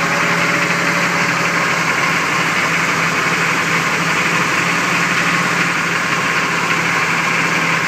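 Chevrolet 6.2-litre V8 diesel engine of an M1031 contact truck idling steadily, with a loud, even diesel clatter.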